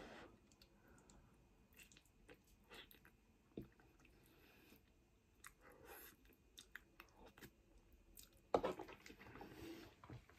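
Faint, soft, wet chewing of a mouthful of cheesy pasta with bare gums, no teeth, with small scattered clicks and smacks, and a brief louder noise near the end.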